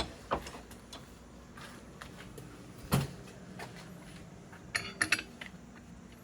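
Scattered knocks and clicks of a steel lawnmower blade being handled, with a sharp knock about three seconds in and a brief ringing metal clink near the end.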